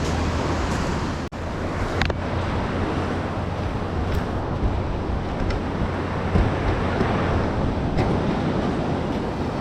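Ocean surf washing on the beach, with wind buffeting the microphone in a steady low rumble and a few faint clicks.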